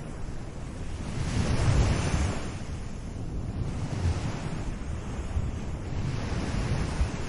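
Small ocean waves washing onto a beach, with a steady hiss of surf. One wash swells and fades between about one and two and a half seconds in, and a smaller one comes near the end.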